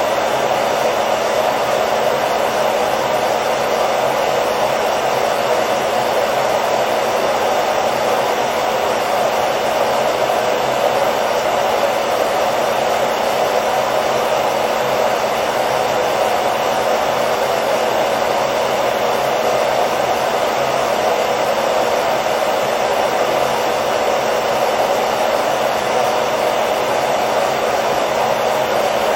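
Hair dryer running steadily, a constant whooshing of blown air and motor noise with no change in speed, played as white noise to lull a baby to sleep.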